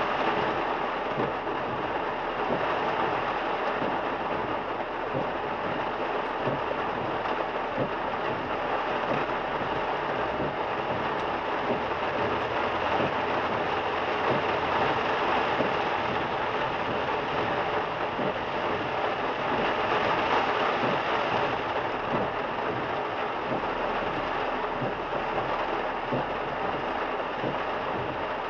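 Heavy rain on a moving car, mixed with the hiss of tyres on the wet road: one steady, even rushing noise.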